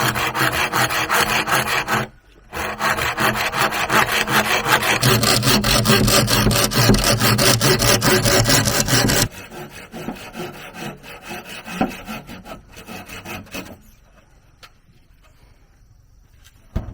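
Hand saw cutting bamboo in rapid back-and-forth strokes, with a brief pause about two seconds in. The sawing is loud until past the middle, continues more lightly for a few seconds, then stops, with a single knock near the end.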